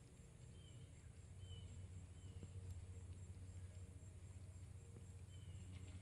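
Faint dusk ambience: a bird gives a few short, high chirps a second or so apart over a low steady hum.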